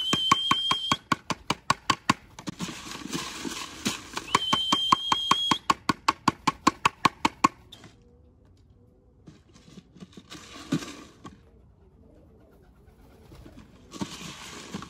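Racing pigeons at the loft: a quick, even run of sharp claps, about five a second, for several seconds, broken twice by a steady high electronic beep about a second long, then quieter shuffling.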